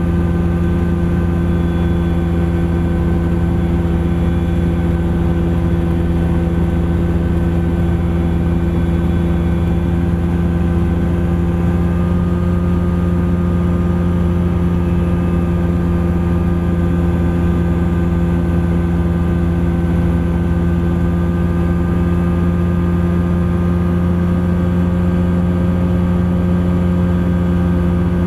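Thruster ultralight aircraft's engine running steadily in flight, with a slight step up in pitch about twelve seconds in.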